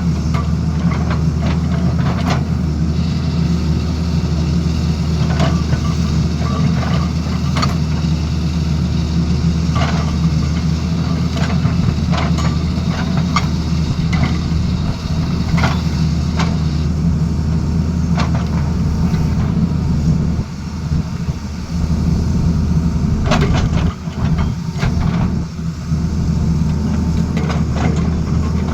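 Excavator's diesel engine running steadily, with scattered irregular clanks and knocks. The engine note drops off briefly twice in the last third.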